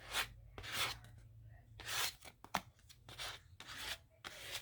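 Paper cutouts being handled and cut: a series of short papery rustles, with one sharp click about two and a half seconds in.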